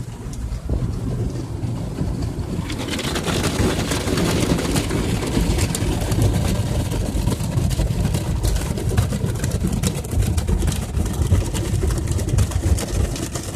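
Automatic car wash heard from inside the car: a steady low rumble of the wash machinery, with water spray hissing and pattering on the car's body and windows, the spray coming in louder about two and a half seconds in.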